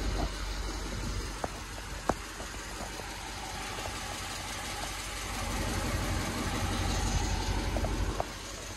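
A car engine idling steadily, with a couple of sharp clicks.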